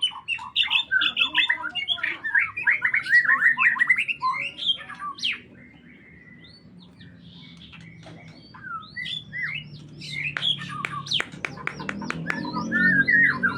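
A songbird singing in fast, rapid chirps and trills. It goes quieter about five seconds in, with only scattered notes, then comes back with sharp chirps.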